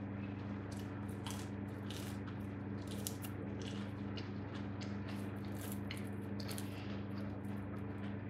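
Close-up sounds of someone eating bread dipped in fried egg: wet chewing, lip smacks and many short clicks, over a steady low hum.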